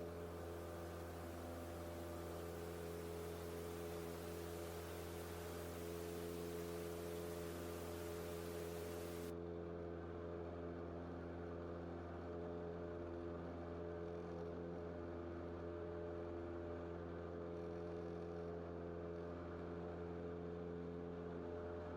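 Cessna 172's piston engine and propeller droning steadily in the climb, heard from the cockpit as a low, even hum. A high hiss over it cuts off sharply about nine seconds in.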